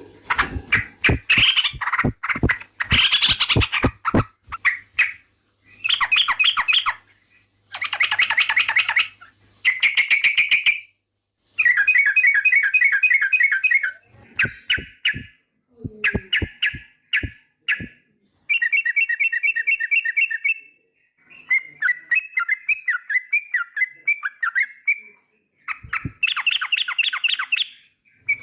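Yellow-vented bulbul (trucukan) singing: loud, rapid chattering phrases, each a second or two long, separated by short pauses. The first few seconds are full of sharp clicking notes.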